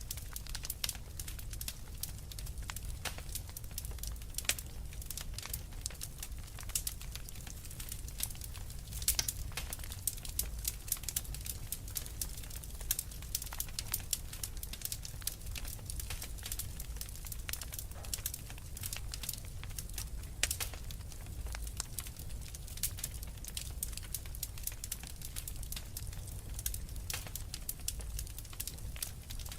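Wood fire in a fireplace crackling, with dense irregular pops and snaps over a low, steady rumble.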